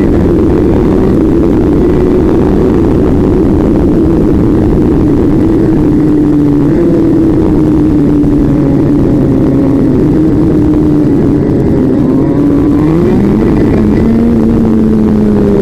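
A vehicle engine running steadily under way, its pitch drifting slowly down and back up, over a heavy rush of wind or road noise.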